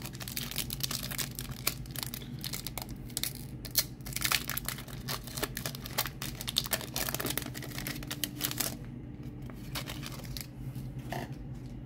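Foil Pokémon TCG booster pack wrapper being torn open and crinkled, with dense crackling that dies down about nine seconds in, leaving a steady low hum and a single click near the end.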